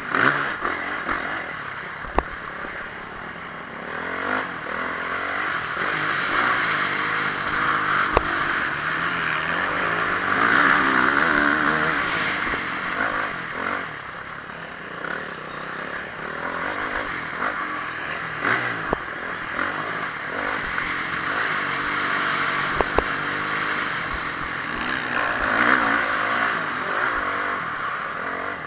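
Honda CRF450R motocross bike's 450 cc single-cylinder four-stroke engine revving up and down hard as it is ridden, with a few sharp knocks.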